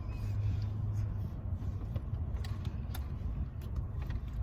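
Car engine idling, a steady low hum heard from inside the cabin, with a few faint clicks over it.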